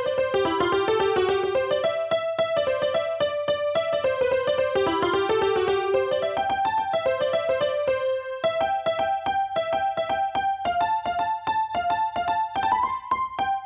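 Background piano music: a bouncy melody over a steady, even beat, with a brief pause in the notes a little past halfway.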